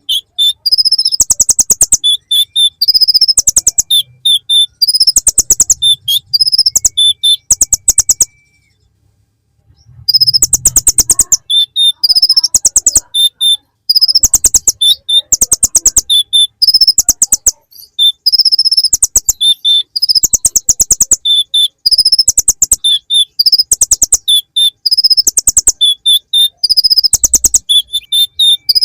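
A kolibri ninja sunbird (konin) singing a full song laced with mimicked ciblek (bar-winged prinia) phrases: loud, rapid high trills about a second long, repeated over and over with short high notes between. The song stops for about a second and a half around nine seconds in.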